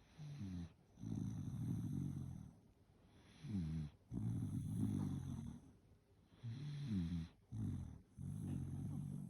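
Sleeping Shiba Inu snoring in a steady rhythm: three breaths about three seconds apart, each a short note that slides in pitch followed by a longer, rattly snore.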